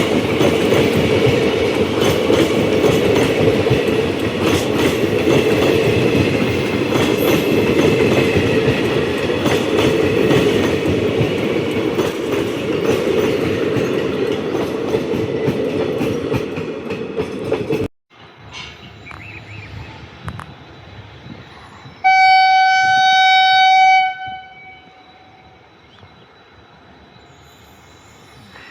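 A train passing close by, its wheels rumbling and clattering over the rail joints, until a sudden cut at about eighteen seconds. In the quieter scene that follows, a locomotive horn sounds one blast of about two seconds.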